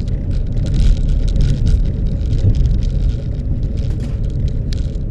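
Car driving: a steady low rumble of engine and road noise, with many small rattles and clicks over it.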